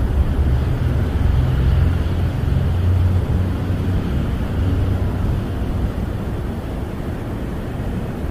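Snowstorm wind blowing against a camper, heard from inside: a steady low rumble with a hiss over it. The gusts ease slightly after about five seconds.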